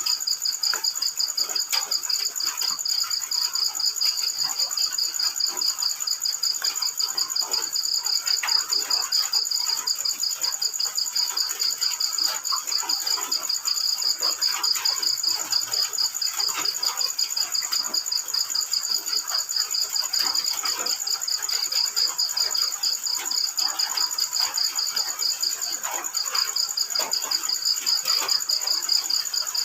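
Field crickets chirping in a fast, even, pulsing trill that pauses briefly near the end, over the steady patter of rain falling.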